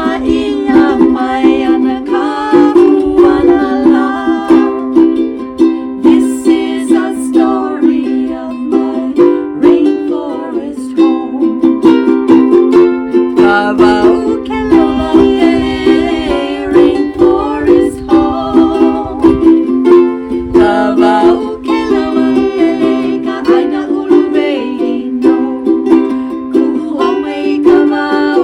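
Ukulele strumming chords in a steady, lively rhythm, an instrumental passage of the song.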